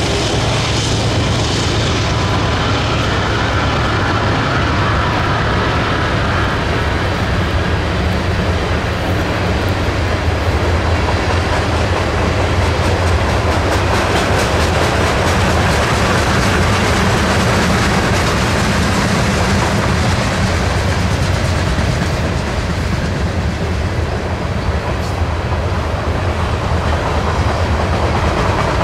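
Manifest freight train rolling past at close range: a steady rumble of wheels on rail with clickety-clack as the cars pass over rail joints.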